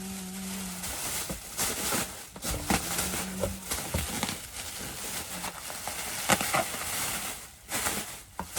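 Packaging being unwrapped by hand: irregular rustling and crinkling with sharp clicks, with a brief hummed tone near the start.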